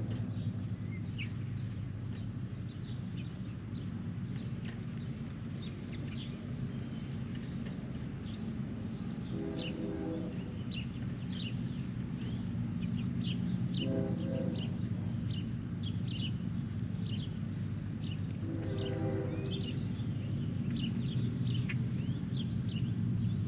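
Wild birds chirping, many short calls coming in quick succession over a steady low rumble. A pitched tone sounds three times, each for about a second.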